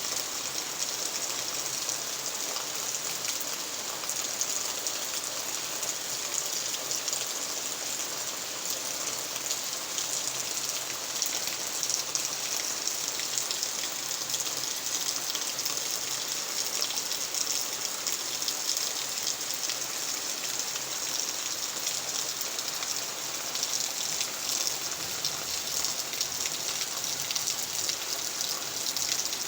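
Steady rain from a tropical storm falling without a break, a dense even hiss of countless drops.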